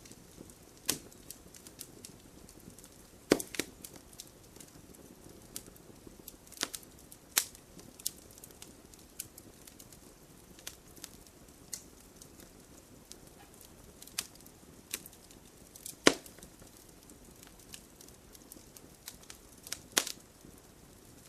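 Campfire burning, the wood crackling with irregular sharp pops over a soft steady hiss. The loudest pops come about three seconds in and about sixteen seconds in.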